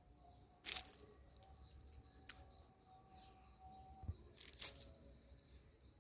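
Indian ringneck parrot giving two short, loud calls, one about a second in and another near the end, over faint steady background chirping.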